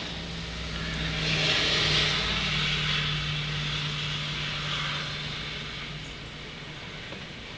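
A car passing on a wet road: tyre hiss swells to its loudest about two seconds in and fades away. Under it an engine hum holds steady, then dies out about six seconds in.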